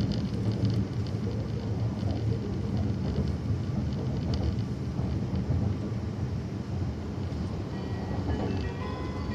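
Steady low rumble of an Akita Shinkansen Komachi train running, heard inside the passenger car. Near the end, the onboard chime melody begins, the signal that an announcement is coming.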